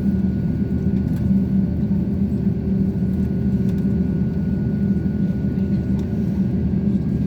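Airbus A350-900 airliner heard from inside the cabin: a steady engine and airflow rumble with a faint, steady high whine.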